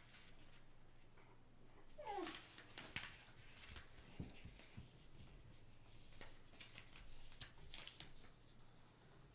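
Faint rustling, crinkling and soft taps of a letter-size sheet of paper being folded diagonally and creased by hand. A short falling whine comes about two seconds in.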